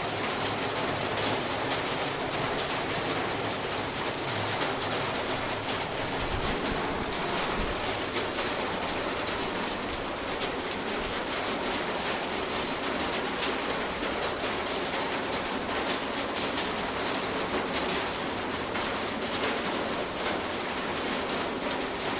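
Summer rain falling steadily on a roof: a dense, even patter of countless drops with no let-up.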